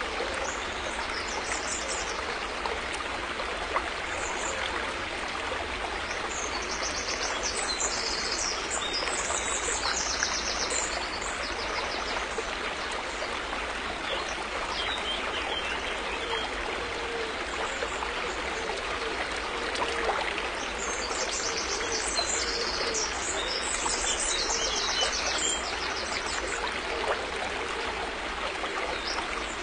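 River water flowing steadily. Small birds chirp in short, high, rapid trills over it, on and off, most thickly around a third of the way in and again past two-thirds.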